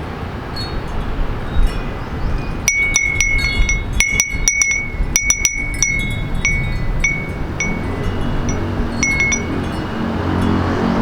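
Small metal wind chime ringing in the breeze, first a quick flurry of strikes and then scattered single strikes, each ringing on with a clear high tone. Under it runs a steady low city hum that swells near the end.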